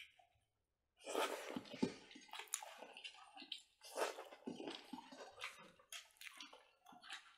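Close-miked eating sounds: wet chewing and smacking as smoked pork ribs are eaten by hand, in irregular bursts starting about a second in.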